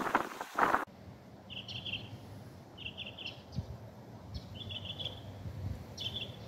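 Wind rushing on the microphone for the first second, cut off abruptly. Then a small bird calling, four short high trilled phrases about a second and a half apart.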